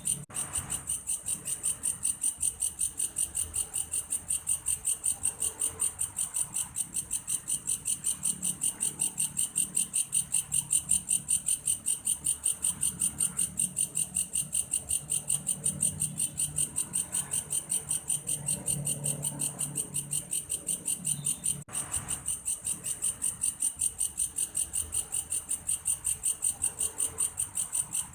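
Belalang kayu insect singing a continuous, high, cricket-like trill in rapid, even pulses, with a brief dropout about three-quarters of the way through.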